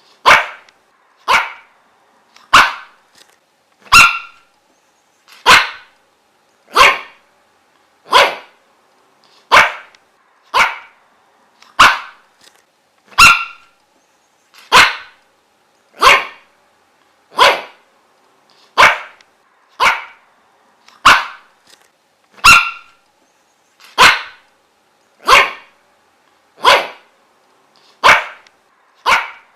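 A dog barking single short barks, one about every second and a quarter, in a steady unbroken rhythm.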